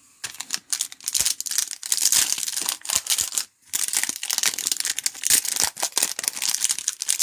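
Trading-card pack wrappers crinkling and tearing as packs are ripped open, a dense crackle with a brief pause a little past halfway.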